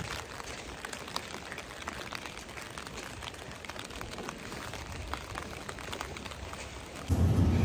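Rain falling on an open umbrella overhead: a soft hiss with many small scattered drop ticks. About seven seconds in, louder background music cuts in abruptly.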